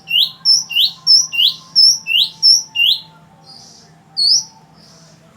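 Oriental magpie-robin singing: a quick run of loud, sharp up-slurred whistles, about three a second, for the first three seconds. Softer notes follow, then one more loud whistle about four seconds in.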